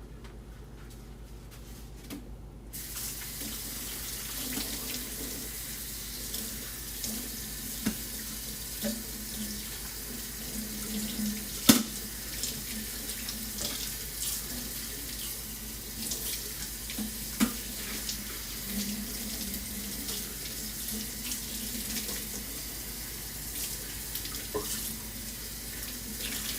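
Kitchen tap turned on about three seconds in and running into the sink during hand-washing, with dishes and utensils knocking now and then and one sharp clank midway.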